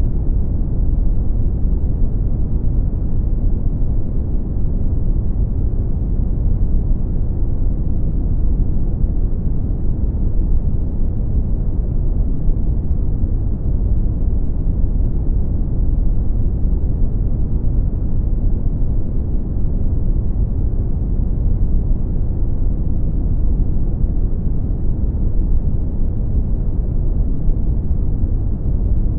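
Brown noise: a steady, deep rumbling hiss, strongest in the bass and fading out toward the treble, with no changes.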